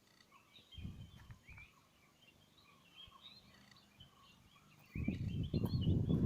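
Birds chirping and calling, many short calls over each other. About five seconds in, a loud low rushing noise comes in and covers the lower sounds.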